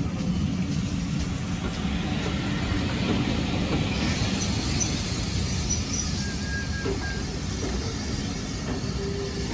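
Railway passenger coaches rolling past close by, a steady rumble of wheels on the rails, with a few faint high squeaks about halfway through.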